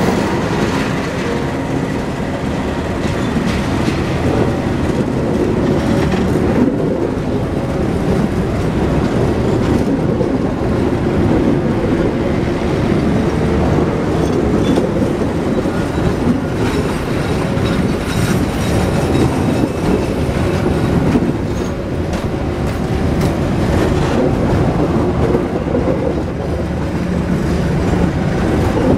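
Passenger train coaches rolling past close by, with a continuous rumble and the wheels clacking irregularly over the rail. A faint steady tone sounds in the first second or so, as the diesel locomotive at its head goes by.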